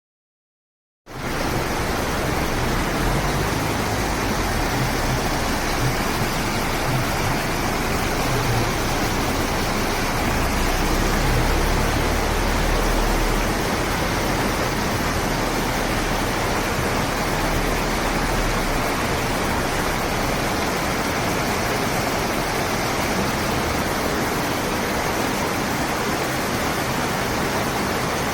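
Rushing floodwater: a loud, steady rush of water that starts abruptly about a second in, with a low rumble underneath that fades out about two-thirds of the way through.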